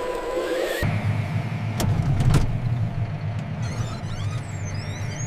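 A tractor engine running with a steady low rumble that cuts in about a second in, replacing a higher whine. There are a few sharp clicks around two seconds in and faint high chirps near the end.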